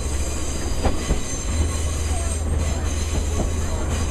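Sagano scenic railway train running along its track, heard from an open-sided carriage: a steady low rumble of wheels on rails with scattered clicks, a sharp one a little under a second in.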